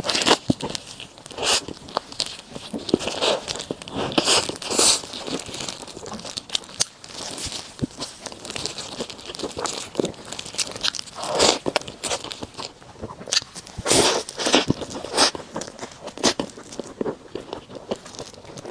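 Close-miked eating: bites and chewing, with irregular crunchy, crackly bursts.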